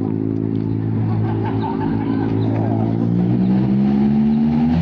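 Triumph motorcycle engine running under way at a steady cruise, its note rising gradually over the last couple of seconds as it accelerates.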